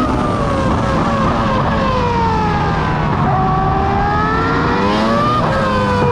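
A motor vehicle's engine running loudly. Its pitch slides down over a few seconds, climbs again, then drops suddenly near the end.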